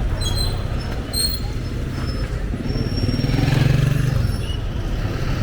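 Motor vehicle engine and road traffic noise, a steady low rumble that swells louder for a second or so past the middle. Two short high squeaks come in the first second and a half.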